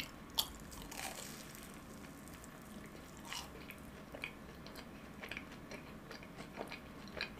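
Biting into a fried cheese ball, with a sharp click at the bite about half a second in, then quiet closed-mouth chewing with small scattered mouth clicks.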